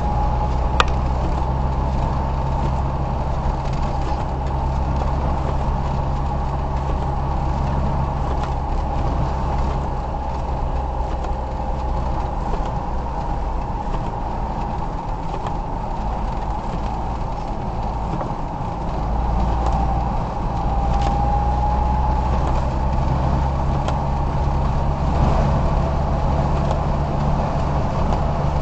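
A car running, heard from inside the cabin: a steady low engine and road hum with a faint whine that rises a little about twenty seconds in, and a single click about a second in.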